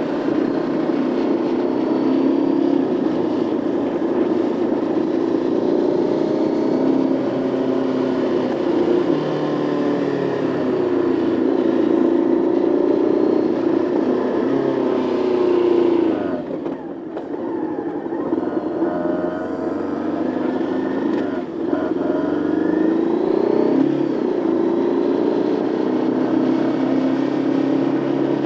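Motorcycle engine pulling through the gears while riding, its revs rising and falling. The throttle shuts off sharply about halfway through and briefly again a few seconds later, and the revs then climb back up.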